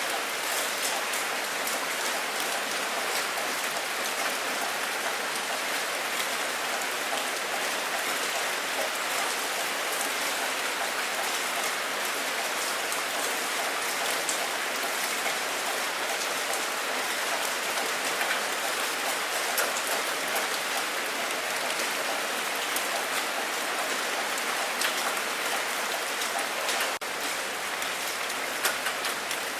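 Steady rain falling, an even hiss with many individual drops ticking through it; the level dips slightly near the end.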